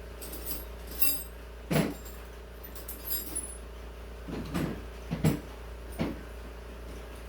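Metal hand tools clinking and knocking, several sharp clanks spread a second or so apart, over a steady low hum.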